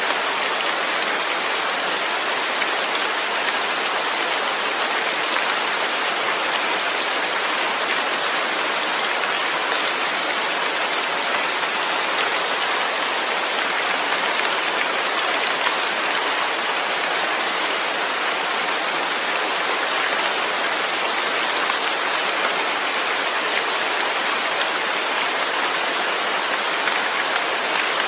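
Steady rain falling, an even unbroken hiss with no thunder or other events.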